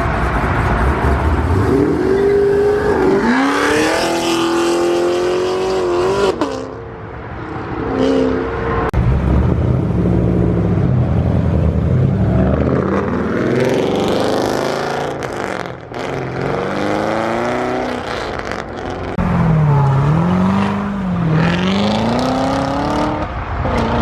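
Loud car engines revving hard and accelerating away one after another, their pitch climbing and dropping several times as cars leave a meet.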